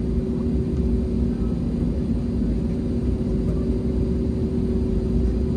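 Cabin noise inside an Airbus A321neo on the ground before takeoff: a steady low rumble with an even hum running through it.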